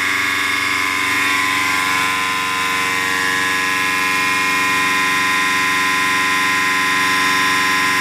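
Diesel engine running steadily, with a high whine over it that shifts slightly in pitch a second or two in.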